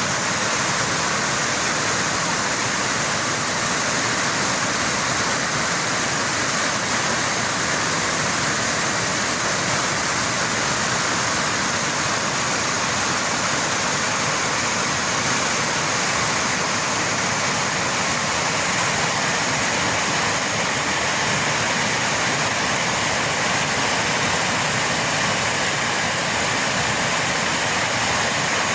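Floodwater rushing in a steady, unbroken roar of water.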